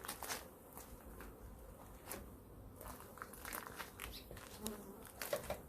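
Honeybees buzzing around an open hive of Italian bees, with a few short clicks and knocks scattered through.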